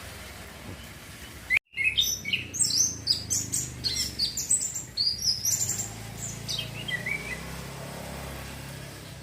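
A young male orange-headed thrush singing a rapid run of varied, high chirping notes as it learns its song. The song starts right after a brief cut about a second and a half in, and trails off in a few lower notes around seven seconds.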